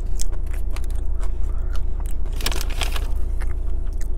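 Close-miked chewing with crisp crunches of tortilla chip, the loudest cluster of crunches about two and a half seconds in. A steady low hum runs underneath.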